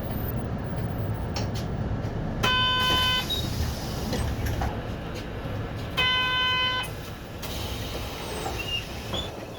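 City bus idling at a stop with a steady low engine rumble, and two steady electronic beeps, each under a second long, about three and a half seconds apart.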